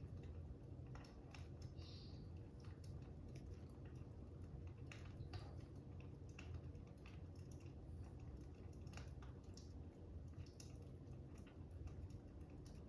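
Faint fire crackling: small irregular pops and snaps over a steady low rumble.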